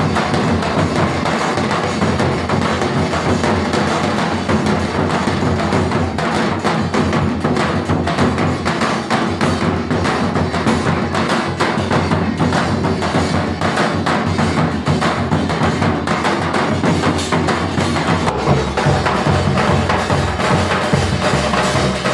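Dhol drum played in a fast, continuous rhythm as part of music, its low end growing heavier about eighteen seconds in.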